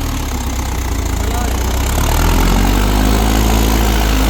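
Mahindra 4WD DI tractor's diesel engine running, getting louder about two seconds in.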